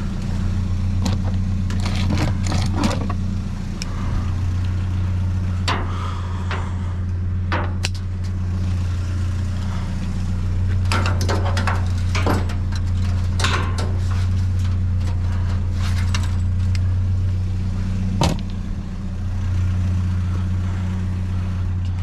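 Steady low hum of an idling vehicle engine, with scattered knocks, clatters and rustles of junk being shifted about in a dumpster.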